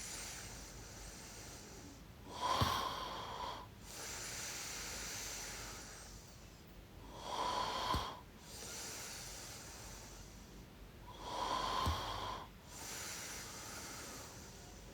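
A person snoring softly and steadily in sleep. Three snores come about four to five seconds apart, each followed by a longer, quieter breath.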